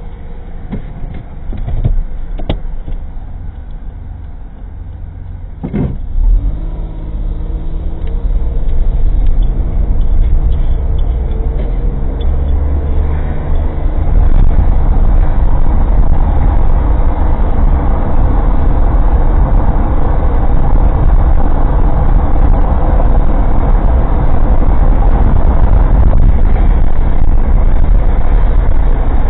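An old kei car's engine heard from inside the cabin through a dashcam microphone. It starts as a low rumble with a couple of sharp clicks, then revs up in rising steps as the car pulls away and accelerates. From about halfway through it settles into steady, louder engine and road noise while cruising.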